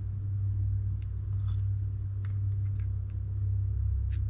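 A few faint, light clicks of small metal parts being handled as a bearing is fitted into a spinning reel, over a steady low hum.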